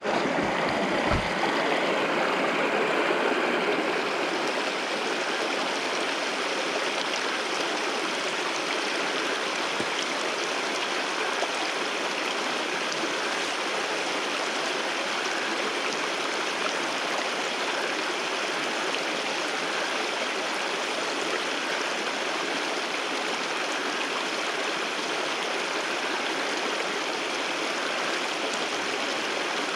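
Waterfall water rushing in a steady, even flow, a little louder for the first few seconds and then constant.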